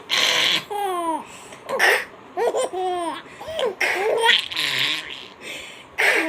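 A baby laughing in repeated bouts: high-pitched squealing voice sounds that slide in pitch, with breathy gasps in between.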